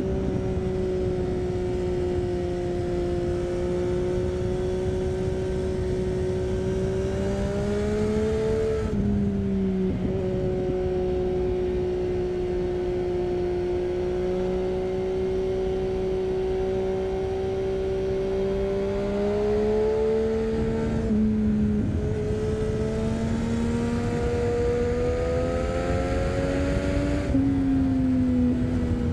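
Triumph Street Triple 675's inline three-cylinder engine running under way through an Arrow 3-2 exhaust with the dB killer fitted. The note holds mostly steady, rising slowly and then dropping back sharply three times: about a third of the way in, about two-thirds in, and near the end.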